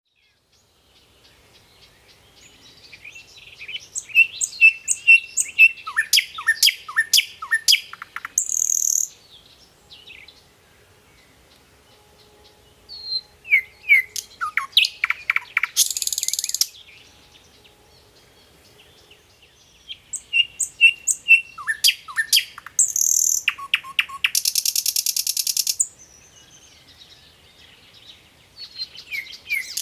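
Bird song: phrases of rapid chirps, quick falling notes and buzzy trills, repeated three times with quiet gaps of a few seconds between, a fourth starting near the end.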